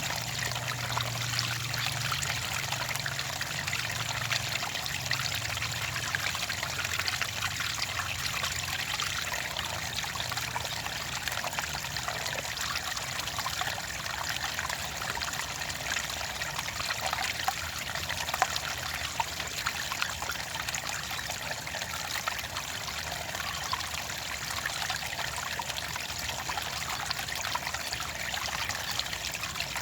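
Clear water running and trickling steadily, a continuous splashing flow like a small stream.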